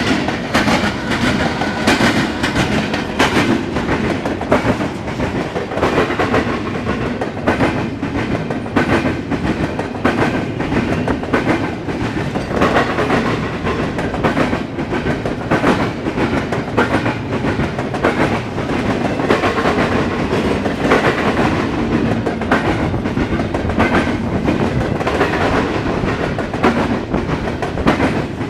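Intermodal and autorack freight train rolling past, a steady rumble with repeated clickety-clack as the car wheels cross rail joints.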